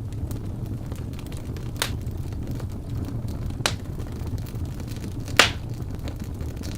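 Wood fire burning in a fireplace: a steady low rumble of the flames with scattered sharp crackles and pops from the burning logs, the loudest pop a little after five seconds in.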